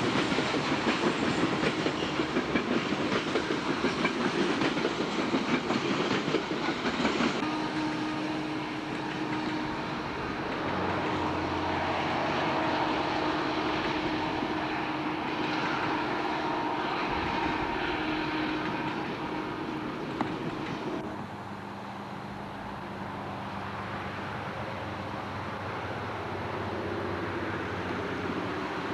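A train rolling past with its wheels clattering rhythmically over the rail joints for the first several seconds, then a steadier rumble with a low steady hum.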